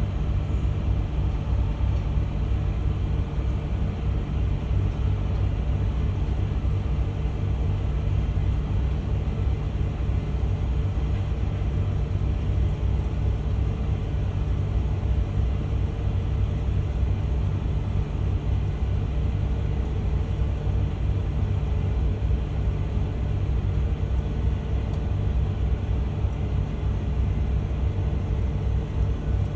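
Komatsu PC300 excavator's diesel engine running steadily, an even low hum with no revving.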